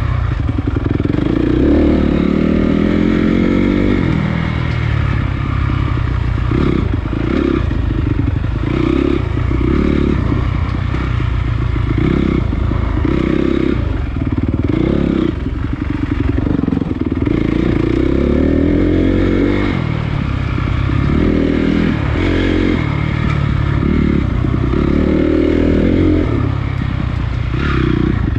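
Honda CRF250 dirt bike's single-cylinder four-stroke engine being ridden, its pitch repeatedly rising and falling as the throttle is opened and closed.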